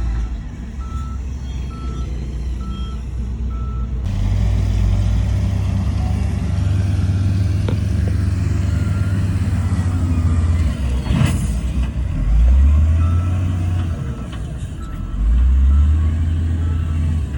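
Heavy diesel earthmoving machinery running with a deep engine rumble that rises in two surges near the end, while a reversing alarm beeps steadily, most clearly in the first few seconds. A brief sharp sound cuts in about 11 seconds in.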